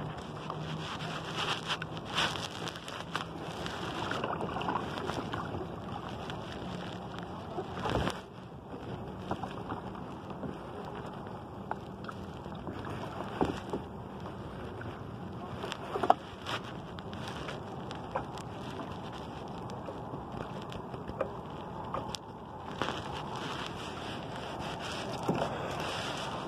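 Steady wind and water noise out on open water, broken by scattered knocks and clicks; the sharpest come about 8 and 16 seconds in.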